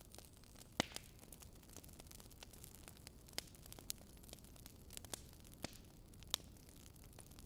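Campfire crackling: irregular sharp pops and snaps, about half a dozen of them, over a faint steady hiss.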